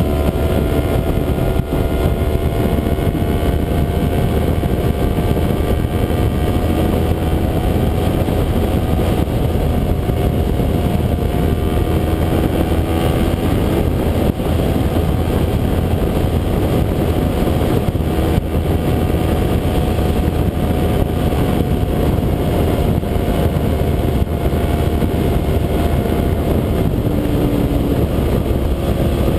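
Kawasaki Ninja 250 parallel-twin motorcycle engine running at a steady cruising speed, its pitch holding nearly level with only slight rises and dips. Heavy wind rumble on the microphone runs underneath.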